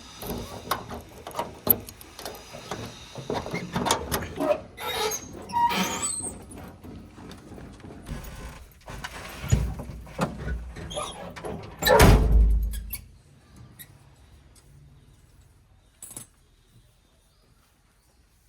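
JCB 3DX backhoe loader at work: metal squeals and clanks from the arm and bucket, and a heavy rush about twelve seconds in as earth drops from the bucket. It goes quieter afterwards, with one more knock.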